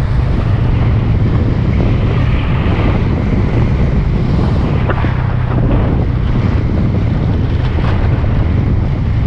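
Wind buffeting the microphone on a moving motorcycle, a loud, steady rumble with the motorcycle's engine running underneath.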